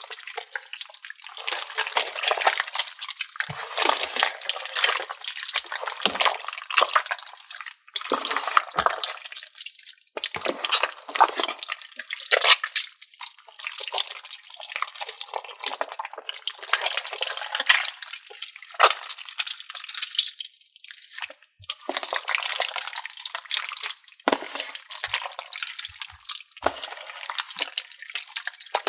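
A large mass of slime and putty squeezed and kneaded by hand, making wet squelching and crackling in irregular bursts with short pauses.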